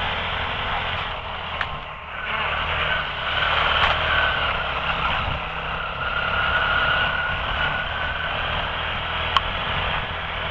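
Quad (ATV) engine running steadily while being ridden in pouring rain, with a hiss of rain and wind over it. A single sharp click near the end.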